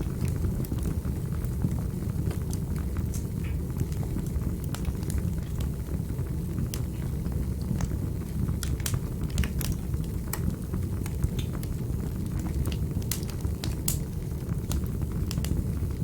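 A fire burning in a fireplace: a steady low rumble with scattered sharp crackles and pops at irregular intervals, thicker in the second half.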